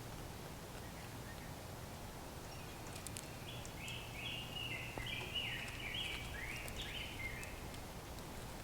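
A bird calls a quick series of about nine short, harsh, slightly falling notes over a few seconds, starting a third of the way in, over a steady low outdoor hum.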